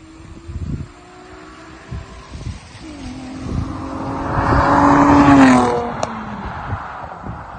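2012 Chevy Camaro LT's 3.6-litre V6 through an MBRP performance exhaust, driving by. The exhaust note builds as the car approaches and is loudest about five seconds in. The pitch then drops sharply as the car passes, and the sound fades away.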